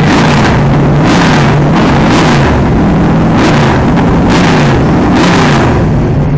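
Drag car's engine revving hard over and over, about once a second, its pitch swinging up and down between blips. It is very loud.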